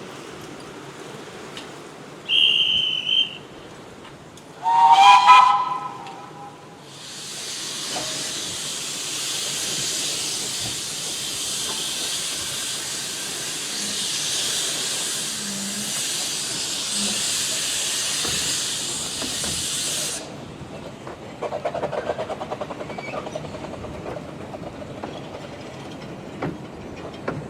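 A miniature steam locomotive of the Romney, Hythe and Dymchurch Railway: a short high whistle, then the locomotive's steam whistle sounds once. A long loud hiss of escaping steam follows for about thirteen seconds and cuts off suddenly, leaving quieter clatter of the train.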